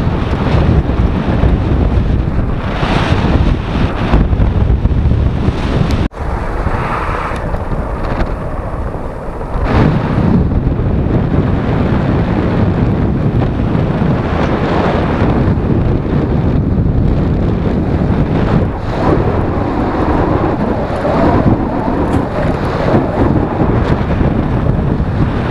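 Wind buffeting the microphone: a loud, steady low rumble, broken by a brief dropout about six seconds in.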